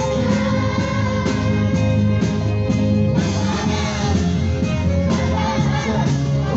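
Live band playing an upbeat pop song with a steady bass line and drum beat, while voices sing along.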